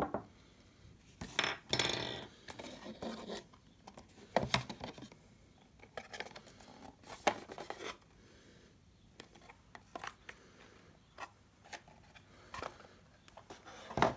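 Hands handling packaging and small hard plastic parts: an irregular run of clicks, taps, rustles and scrapes, busiest about two seconds in and with a sharp click near the end.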